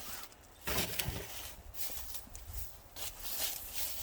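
Rustling and light knocking of things being handled, with the loudest cluster of noises about a second in.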